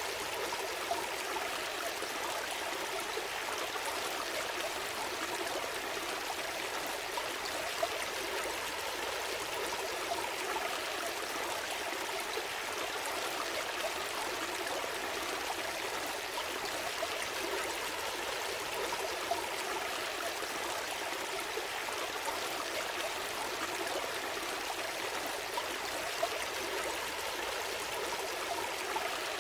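Gentle stream flowing steadily: an even rush of water, with brief small splashes now and then.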